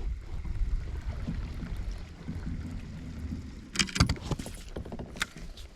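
Wind rumbling on the microphone on a kayak, with a cluster of sharp clicks and knocks about four seconds in and another click near the end, like fishing gear or a paddle knocking against the hull.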